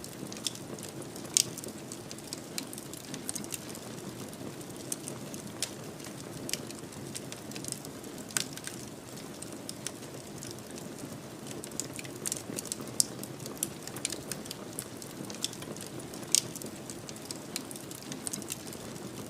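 Wood fire burning in a fireplace: a steady low rush of flame with irregular, sharp crackles and pops.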